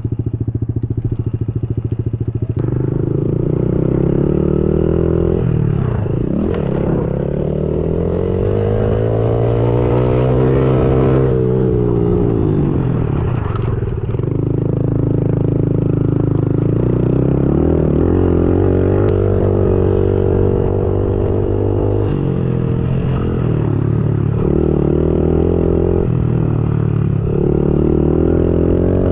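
Dirt bike engine being ridden, its pitch climbing and dropping again and again as the throttle is opened and closed through the gears.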